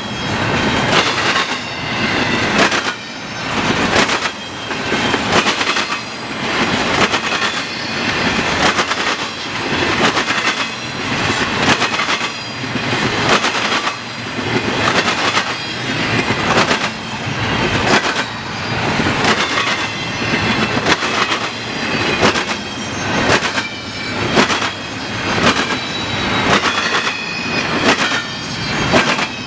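Double-stack container well cars of a freight train rolling past, their wheels banging over a railroad diamond crossing in a steady repeating clatter, about one loud bang a second, with a faint high ringing from the wheels over it.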